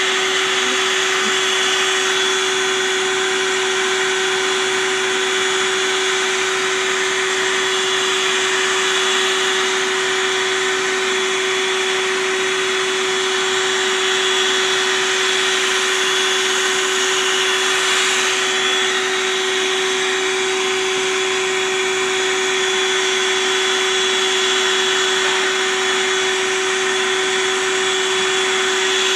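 A vacuum motor running steadily: a constant hum over a rush of air, with no change in pitch or level.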